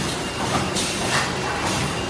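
Plastic bag cutting and handle-punching machine running, its strokes repeating about twice a second over a steady low hum.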